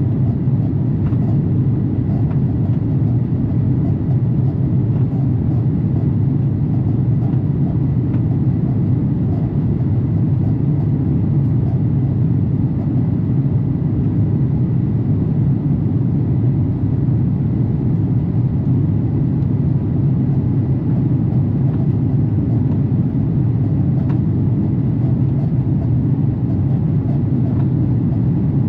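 Steady low roar of an airliner's jet engines and rushing air, heard from inside the passenger cabin, with a faint steady high tone over it.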